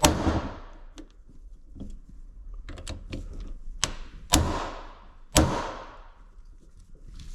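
A handful of sharp knocks of hard tools or parts being struck during an engine teardown, each with a short ringing tail: the loudest comes at the start, and two more strong ones come about a second apart in the second half.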